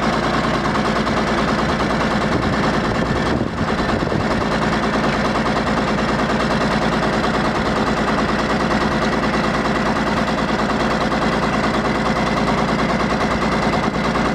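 Diesel engine idling with a loud, rapid, steady clatter, typical of a diesel just after a cold start.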